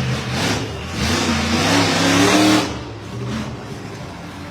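Monster truck engine revving hard, climbing in pitch for about two and a half seconds, then dropping off as the throttle comes off.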